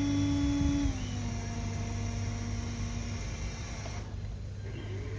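Small motor of an RC truck whining steadily over a low hum. The pitch steps down about a second in, and the whine fades out about three seconds in.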